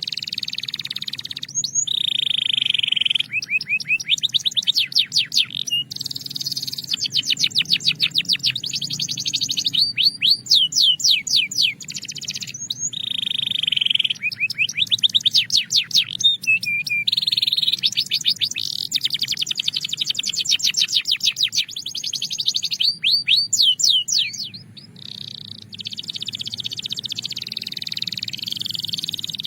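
A Belgian canary singing a long unbroken song of fast trills and rolls: runs of rapidly repeated high notes that alternate with brief sustained buzzy phrases, with a short lull about three quarters of the way through.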